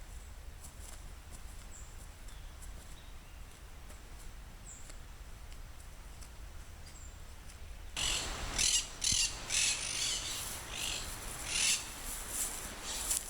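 Faint, sparse bird chirps over a quiet outdoor background. About eight seconds in, loud irregular rustling and crackling starts and keeps going in short bursts.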